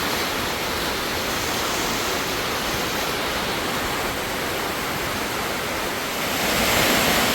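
Heavy tropical downpour of Amazon rain: a dense, steady rush of rainfall, growing a little louder near the end.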